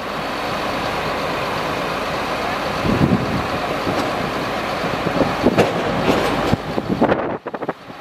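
Truck engine running steadily, with a few short clatters and a brief dip in level near the end.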